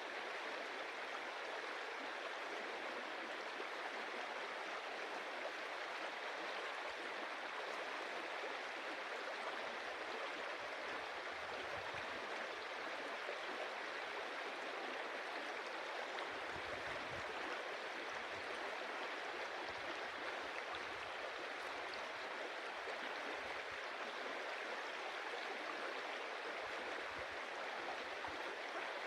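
Stream water running and splashing over stones in a steady, even rush, with faint low rumbles now and then.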